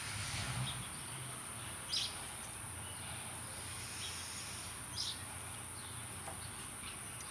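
Steady high-pitched insect chorus, with a bird giving a short call twice, about three seconds apart.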